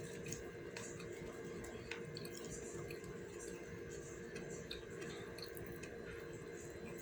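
A person chewing food close to the microphone: soft wet smacks and small mouth clicks at irregular intervals, over a steady low hum.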